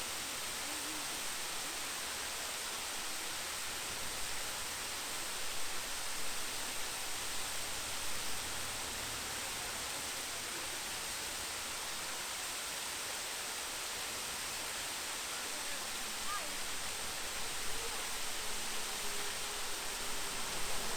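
Steady rush of a large waterfall, with faint voices in the distance near the start and near the end.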